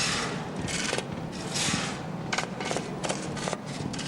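Irregular rasping strokes, each a few tenths of a second long, of a tool scraping on the metal or wooden parts of a forge hammer, with a few sharp clicks between them.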